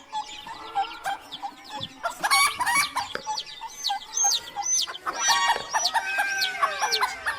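Chickens clucking and calling over one another, with many short high chirps throughout; the calls grow louder and busier about two seconds in.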